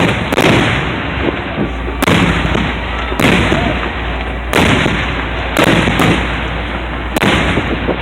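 Aerial fireworks shells bursting in a display: about seven loud booms over eight seconds, each trailing off in a rolling rumble.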